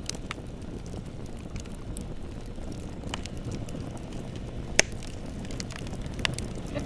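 Bonfire burning, with a steady low rumble of flames and scattered sharp crackles and pops from the burning wood; one pop about two thirds of the way in is much louder than the rest.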